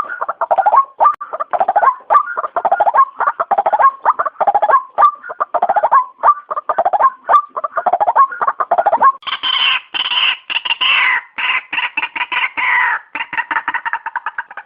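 White-breasted waterhen giving loud, rapidly repeated calls, a few a second. About nine seconds in, the calls turn higher and harsher.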